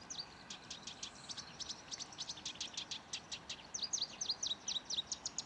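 A small bird chirping: a rapid series of short, high notes, each dropping in pitch, growing louder and more frequent after about three and a half seconds.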